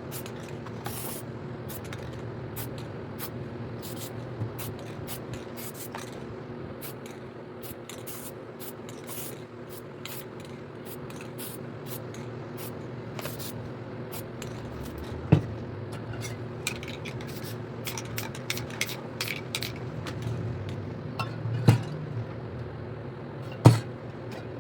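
Aerosol spray paint can hissing in many short bursts, over a steady low hum. A few sharp knocks, the loudest sounds, come about two-thirds of the way through and again near the end.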